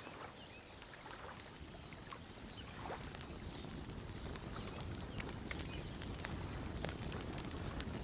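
Campfire crackling, with scattered sharp pops and snaps over a steady low rush of wind and lapping water, growing a little louder after the first couple of seconds.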